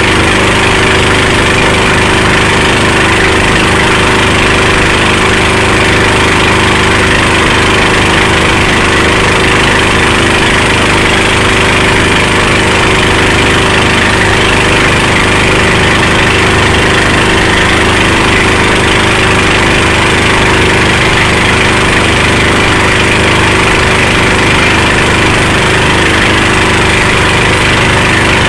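Motorboat engine running steadily at a constant pitch, with no change in speed.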